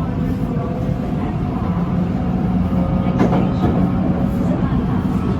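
BTS Skytrain electric train running: a steady mechanical rumble with faint even tones, and a single sharp click about three seconds in.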